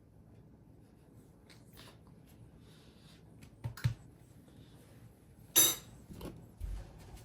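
A few light knocks and clinks of household objects being handled, the loudest a single sharp clink a little past halfway.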